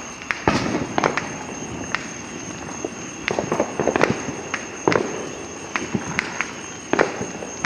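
Consumer fireworks going off all around: an irregular scatter of sharp pops and bangs, a dozen or so reports at varying loudness, some close together in quick clusters.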